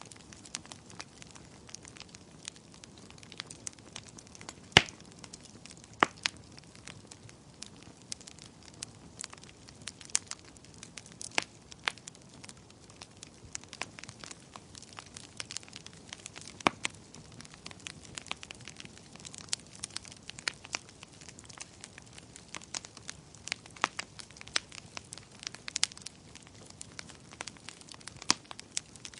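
Wood fire crackling: irregular sharp pops and snaps over a low steady hiss, with a louder pop about five seconds in.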